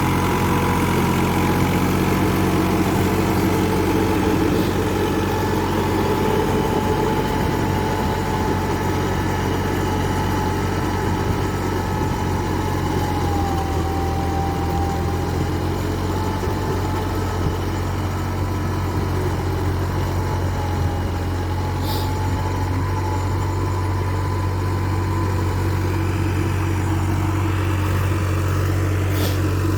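New Holland 3630 TX Super tractor's three-cylinder diesel engine running at a steady speed, with two short clicks in the latter part.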